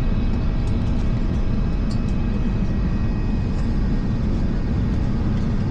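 Cabin noise inside an Airbus A350: the steady rumble of its Rolls-Royce Trent XWB engines and airflow, with faint steady whining tones above it.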